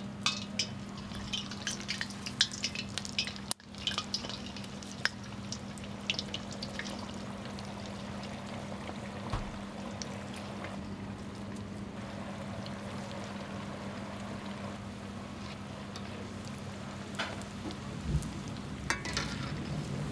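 Food frying in hot oil, a steady sizzle, with a steady low hum underneath. Scattered clicks and taps come in the first few seconds and again near the end.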